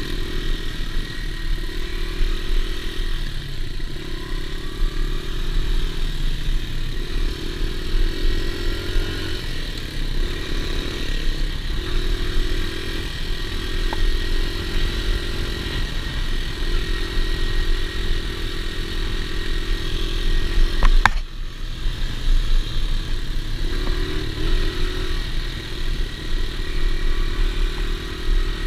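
Dirt bike engine running under way, its pitch coming and going in repeated stretches as the throttle is worked. One sharp crack about three quarters of the way through.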